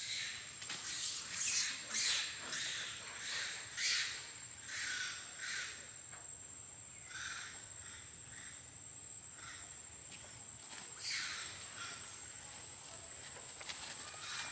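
A series of short, high animal calls, coming quickly over the first six seconds and again twice later, over a steady high-pitched insect whine.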